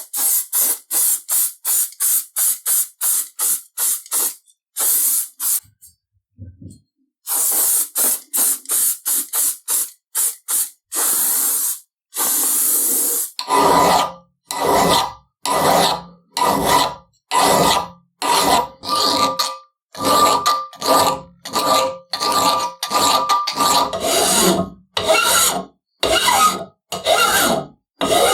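A run of short hissing strokes, then from about halfway in, a hand file rasping across a large steel wrench to take off drop-forging marks, about one and a half strokes a second, the steel ringing faintly under the file.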